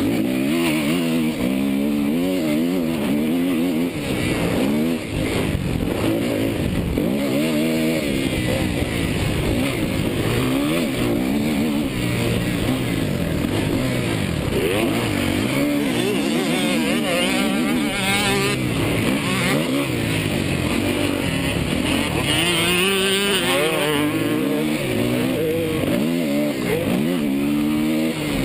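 Motocross dirt bike engine revving up and dropping back over and over as the rider accelerates, shifts and rolls off around the track.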